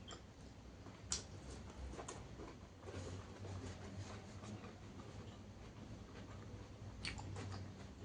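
Close-miked eating: faint chewing with irregular crisp crunching clicks, a sharp one about a second in and a cluster near the end.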